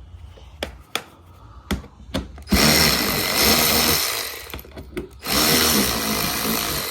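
Electric drill running in two bursts of about two seconds each, backing out a 10 mm skid plate screw, after a few small clicks of handling.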